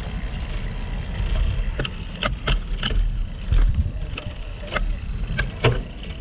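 Wind rumble on the microphone and road noise from a moving bicycle, broken by about eight short, sharp clicks or rattles through the middle.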